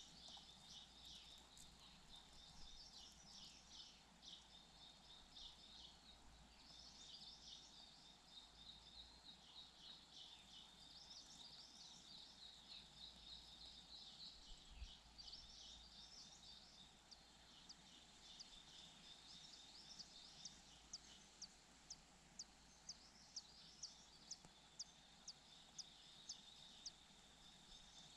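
Faint high-pitched chirping of small birds over quiet outdoor ambience. In the second half it turns into a series of sharp, evenly repeated chirps, about two a second.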